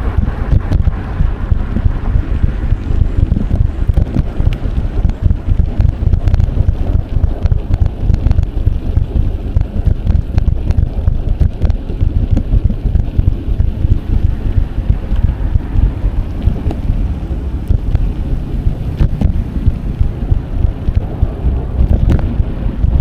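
Wind buffeting an action camera's microphone while riding a bicycle: a loud, continuous low rumble that flutters rapidly.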